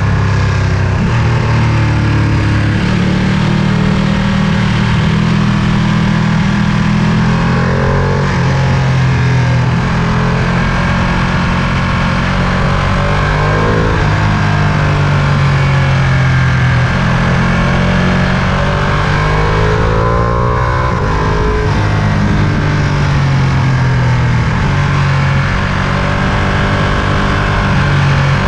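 Ducati Panigale V2's 955 cc Superquadro V-twin running while riding, the revs climbing and dropping several times as it accelerates and shifts.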